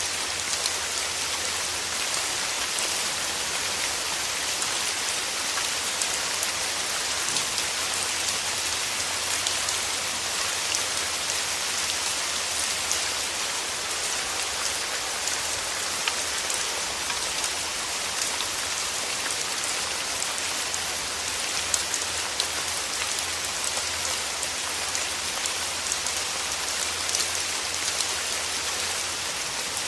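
Steady rain falling on rose petals: an even hiss with scattered sharper drop ticks.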